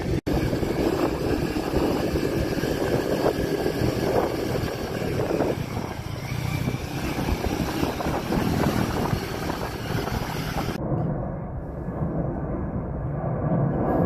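Motorcycle engine running while riding, mixed with heavy wind noise on the microphone. A little before the end the hiss drops away and the sound turns duller.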